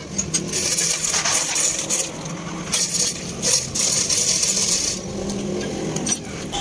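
Metal being worked on the axle housing, heard as two long bursts of harsh, high-pitched metallic scraping over a steady low machine hum.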